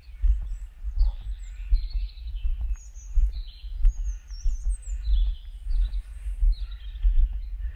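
Small songbirds singing, a run of short high chirps and warbling phrases, over a loud, uneven low thudding rumble.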